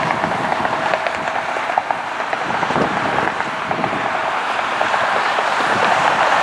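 Steady roar of jet aircraft engines, with wind on the microphone; a faint steady whine drops out about a second and a half in.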